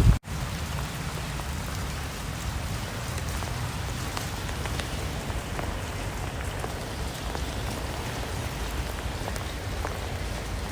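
Steady rain falling on a surface, with individual drops ticking here and there through the even hiss. The sound cuts out for an instant just after the start, then the rain carries on evenly.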